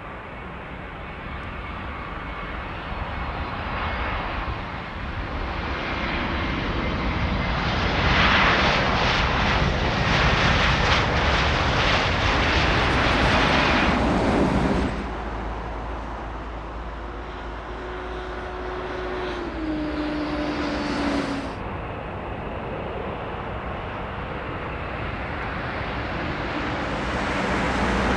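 Jet airliner engines heard from the ground as an aircraft passes. The engine noise builds over several seconds, is loudest about a third of the way in, drops off sharply about halfway, swells briefly again and rises once more near the end.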